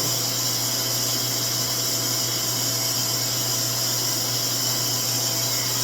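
RevAir reverse-air hair dryer running steadily, its motor sucking a section of hair into the wand while it blows heated air. The sound is a constant low hum with a broad airy hiss, unchanged throughout.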